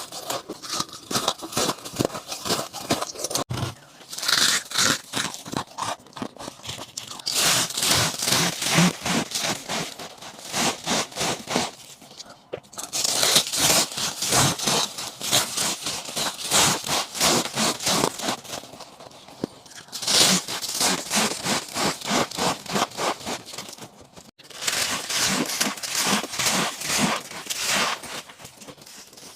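Ice being bitten and crunched between the teeth in fast, dense runs of crackling crunches, broken by a few short pauses, sped up to double speed.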